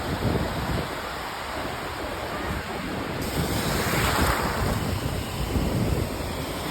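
Wind buffeting the microphone in uneven rumbling gusts over a steady rushing noise, which swells briefly about four seconds in.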